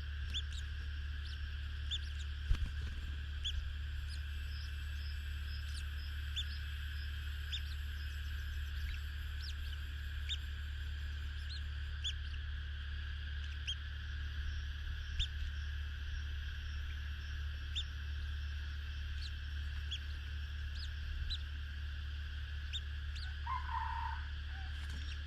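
Birds chirping: short, high, falling chirps repeating every second or so, over a steady low hum and a constant higher hiss.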